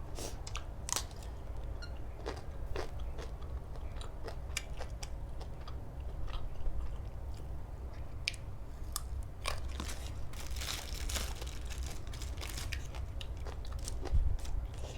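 Close-miked chewing and crunching of food, with scattered crisp bites that come thickest about two-thirds of the way through. There is a single louder thump near the end over a steady low hum.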